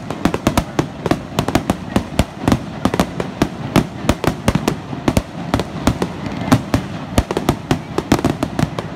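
Fireworks going off in a rapid, unbroken run of sharp bangs and crackles, several a second.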